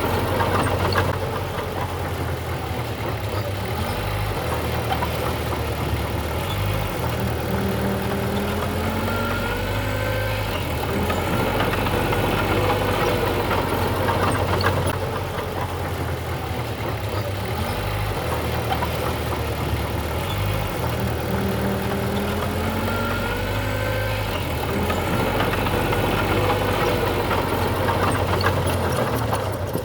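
Heavy construction machinery running steadily with a deep engine rumble, its engine pitch rising and falling a few times as it works.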